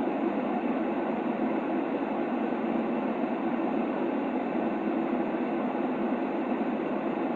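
Steady white-noise sleep sound: an even, muffled rushing hiss that never rises, falls or breaks, with little deep bass and little treble.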